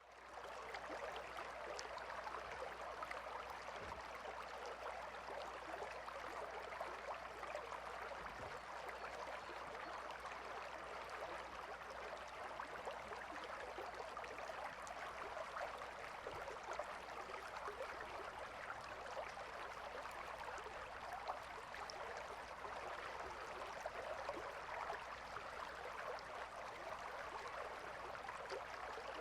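A calm river flowing: a steady, even rush of water that fades in over the first half-second.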